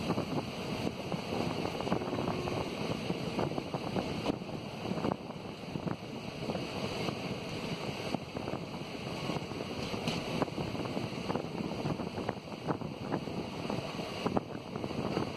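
Steady running noise of a passenger train heard from an open, barred coach window: wheels rolling on the rails with wind rushing past the microphone, and light clicks scattered through it.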